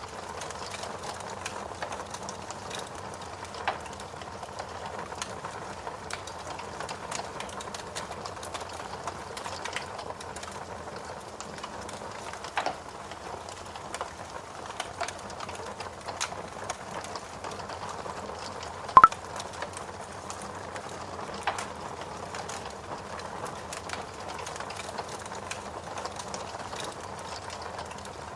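Wood fire crackling in a fireplace, with a few sharp pops (the loudest about two-thirds of the way through), over a steady hiss of rain.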